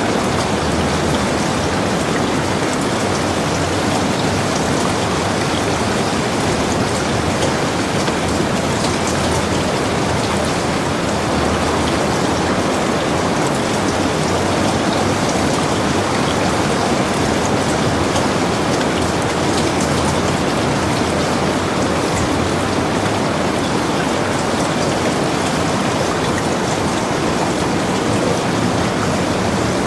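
Heavy rain falling steadily on a log cabin, an even hiss of rain with many fine drop ticks.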